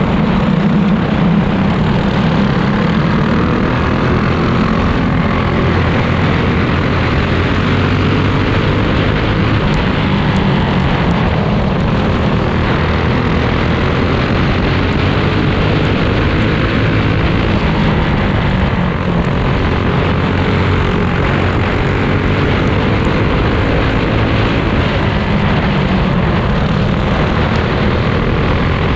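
A pack of go-kart engines racing around a dirt oval: a loud, continuous drone of many small engines at once, their overlapping notes slowly rising and falling as the karts go round.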